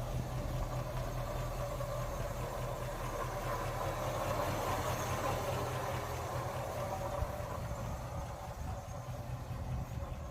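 1948 Ford F5 bus engine idling steadily, fed from its own fuel tank.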